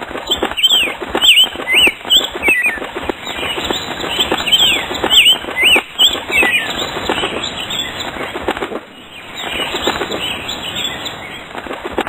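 A small bird's wings flapping rapidly, with a string of short high chirps over the first half, then flapping and rustling without chirps.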